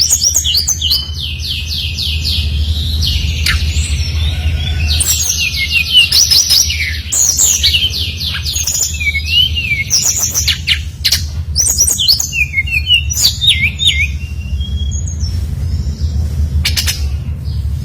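An SRDC (mangrove whistler, kancilan bakau) sings in a fast, varied stream of repeated whistled notes and rapid trills. A steady low hum and a few sharp clicks sit underneath.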